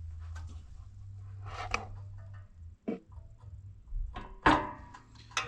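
Knocks and rubbing from handling a pressure washer's fuel tank as it is positioned on its rubber grommets, the loudest clatter about four seconds in, over a low steady hum.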